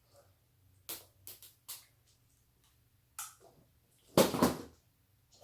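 Jiggly slime being worked in the hands: a few soft sticky clicks, then a louder squelch a little after four seconds.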